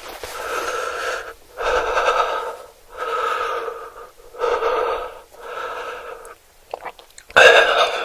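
A person breathing heavily in and out, about one breath a second with short pauses between, with a few small clicks and a louder gasping breath near the end.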